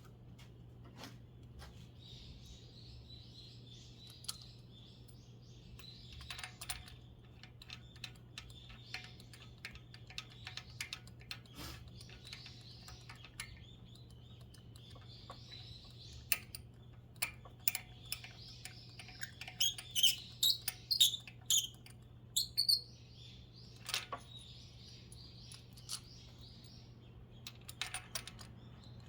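Scattered sharp clicks and knocks of hand-tool work, with a cluster of louder ones about two-thirds of the way in. Small birds chirp in the background over a low steady hum.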